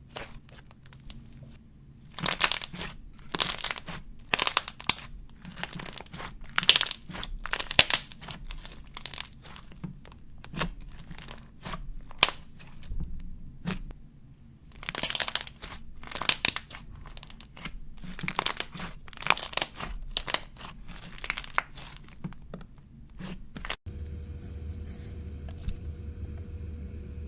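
Slime being squished and stretched, giving uneven runs of crisp crackling and crunching. Near the end it cuts to a quieter steady low hum with a faint held tone.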